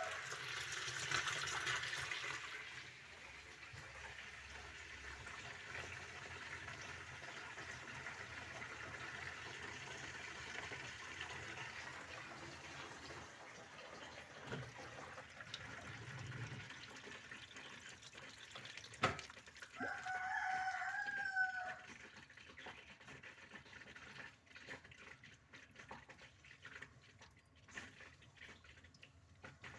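A rooster crows once, about twenty seconds in, over a steady hiss that drops away soon after. A sharp click comes just before the crow.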